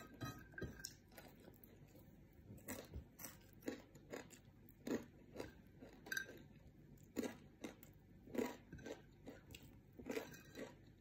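Close-up chewing of crispy fried dried anchovies (dilis), with irregular sharp crunches a little more than once a second.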